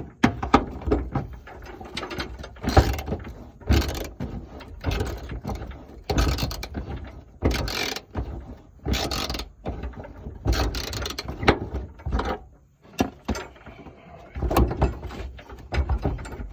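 Irregular clanks and scrapes of metal and tools, roughly one every second, as the old fuel tank of a 1987 Jeep Comanche is worked loose from underneath the truck.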